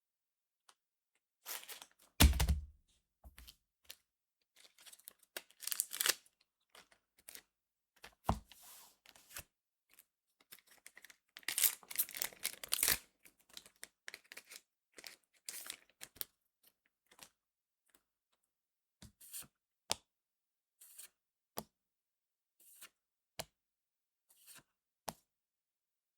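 Trading-card booster pack wrapper being torn open and crinkled by hand, with a loud thump about two seconds in and a dense stretch of tearing near the middle. Short, light clicks of cards being handled follow near the end.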